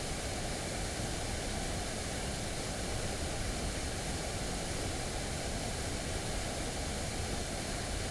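Mountain stream's water rushing in a steady, unbroken wash of noise.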